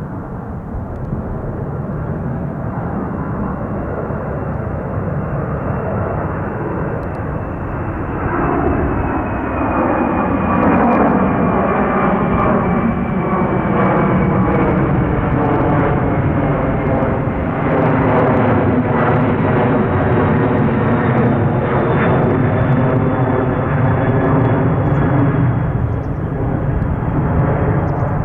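A Boeing 767-300ER jet airliner's twin turbofan engines (General Electric CF6) running loud and steady as the aircraft passes close by. The noise swells about eight seconds in and stays strong, with a high fan whine that slowly slides down in pitch.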